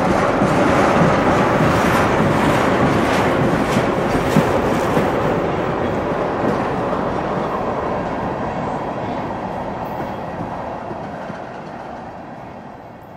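Freight train of tank cars rolling past, steel wheels clicking and rumbling over the rails. The noise gradually fades away through the second half.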